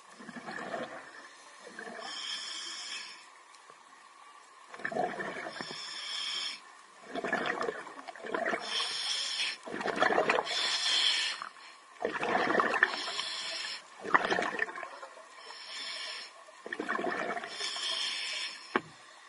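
Scuba diver breathing through a regulator underwater: a hissing inhale, then a bubbling exhale, repeating about every two to three seconds. A single sharp click comes near the end.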